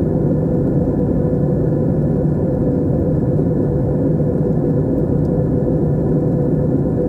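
Steady low drone of an airliner cabin in flight: engine and airflow noise with a constant hum, unchanging throughout.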